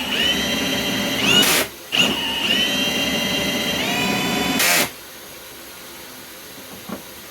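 Cordless Milwaukee M18 Fuel hammer drill spinning a Flexshaft drain-cleaning cable in a sewer line, run in two bursts: a high motor whine that climbs in pitch, then a short loud rush, stops for a moment about a second and a half in, restarts and stops for good about five seconds in.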